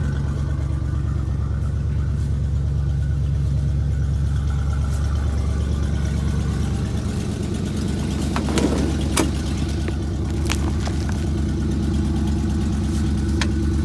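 1988 Chevy R30's 350 V8 idling steadily on its factory exhaust and original mufflers. It has a leaky exhaust sound that the owner puts down to broken-off air injection tubes on the manifolds, not a cracked manifold. A few light clicks come about two-thirds of the way through.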